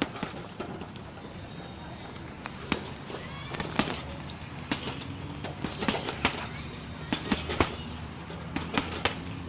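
Repeated hand and foot strikes landing on a large heavy punching bag, about a dozen sharp slaps at an uneven pace, often two in quick succession.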